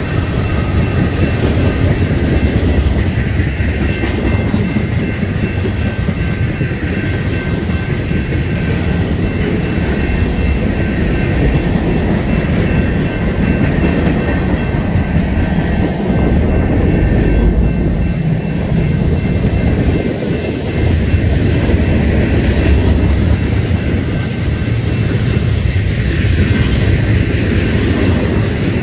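Tank cars of a BNSF manifest freight train rolling past close by: a steady rumble and clatter of steel wheels on the rails, with a thin high ringing tone over it through roughly the first half.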